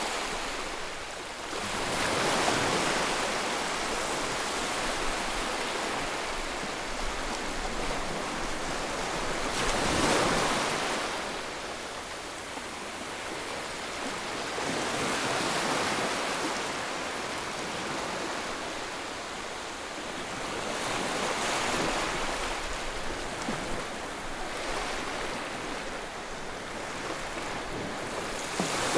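Ocean waves washing in a continuous roar of surf, swelling and fading every several seconds, the biggest surge about ten seconds in.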